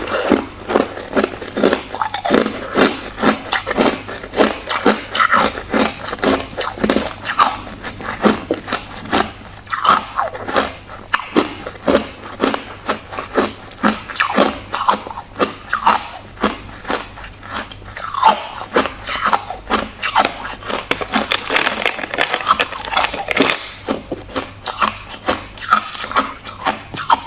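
Hard clear ice being bitten and chewed: a continuous run of sharp crunches and cracks as the ice breaks between the teeth.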